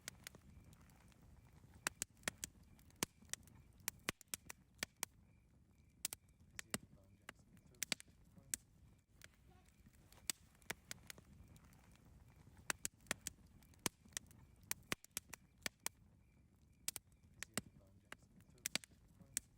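Wood campfire crackling, with irregular sharp pops and snaps, several a second at times, over the low steady rumble of the burning fire.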